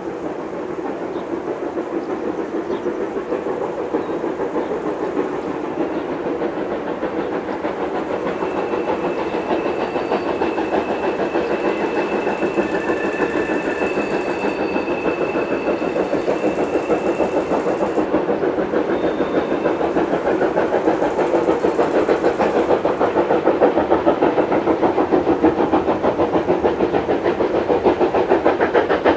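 Baden class VI c steam tank locomotive 75 1118 working a train, its exhaust beating in a fast, even rhythm that grows steadily louder. A thin high-pitched tone sounds faintly for several seconds in the middle.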